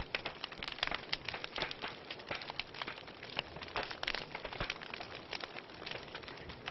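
Wood fire crackling in a fireplace: many irregular sharp snaps over a steady soft hiss.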